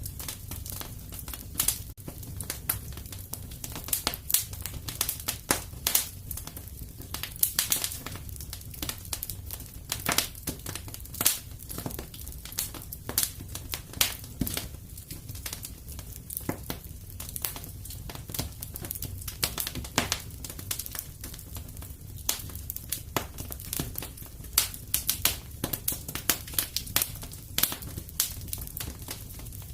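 Wood fire crackling and popping in a fireplace: irregular sharp snaps several times a second over a low steady rumble of the flames.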